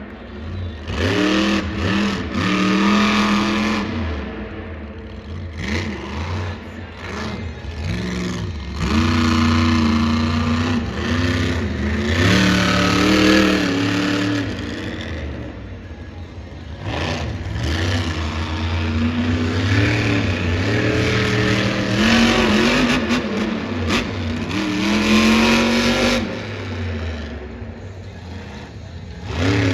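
Monster truck engines revving again and again, the pitch rising and falling with each blip of the throttle.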